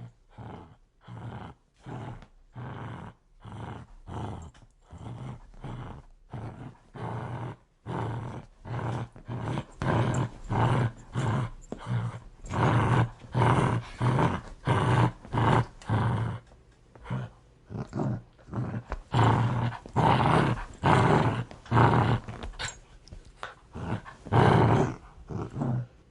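A dog growling aggressively in a continuous run of short, rough pulses, about two a second. It grows louder about eight seconds in.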